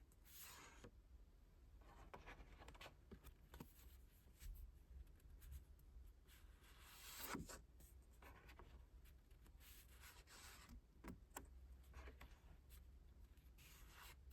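Faint handling of a K-pop album's paper and plastic packaging and inserts: light rustling, sliding and small taps, with a louder rustle about seven seconds in.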